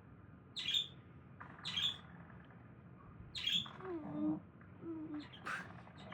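Yellow finch chirping: four short, high calls spaced a second or two apart.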